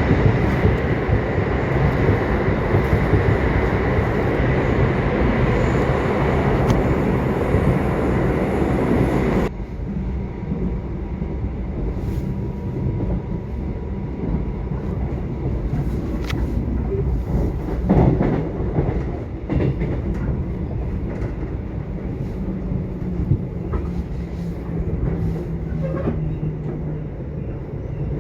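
Subway train running, a loud, dense rumble. About nine seconds in it drops suddenly to a quieter low rumble with scattered clicks, and a faint steady low hum for a few seconds near the end.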